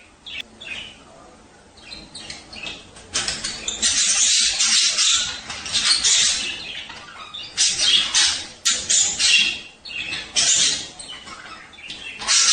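Budgerigars chattering and warbling in rapid, high chirps. The chatter is faint for the first few seconds, then comes in two loud stretches with a short break between them.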